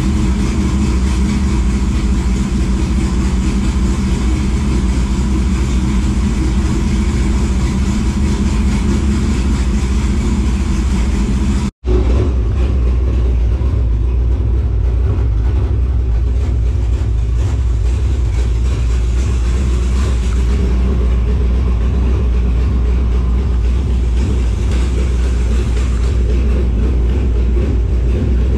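Dirt late model race car's crate V8 engine running at a steady idle. It drops out for an instant about twelve seconds in, then carries on with a heavier low rumble.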